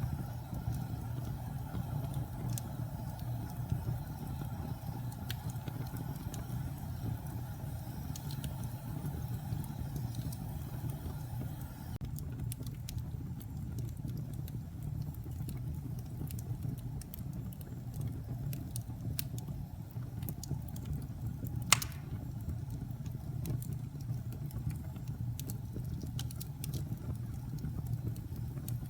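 Wood fire burning in a fireplace: a steady low rumble of flames with scattered small crackles and pops, and one louder pop about three-quarters of the way through.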